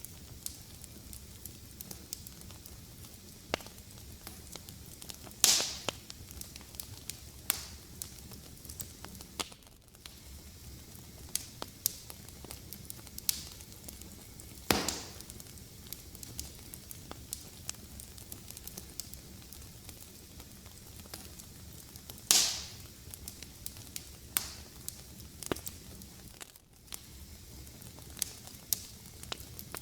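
Fireplace fire crackling: a steady low hiss with frequent small snaps and three louder pops spread through.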